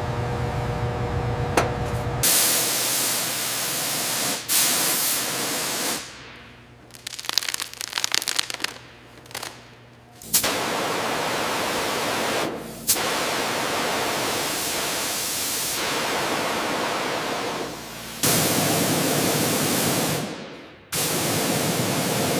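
Loud, steady hissing noise, broken into several stretches by sudden cuts and changes. A low machine hum with steady tones sounds underneath for the first two seconds.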